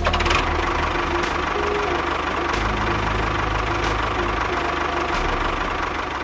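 A motor running steadily with a low, pulsing rumble, and a sharp click about every 1.3 seconds.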